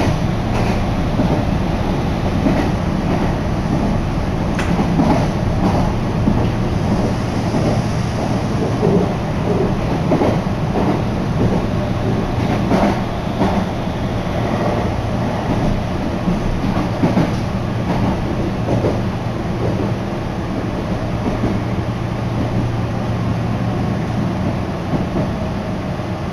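Meitetsu Kowa Line commuter train running, heard from inside the car: a steady rumble under a low hum, with irregular clicks of the wheels over the rails.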